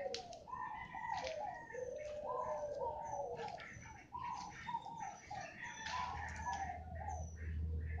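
Several birds calling over one another in a steady run of low, warbling calls. A low rumble comes in near the end.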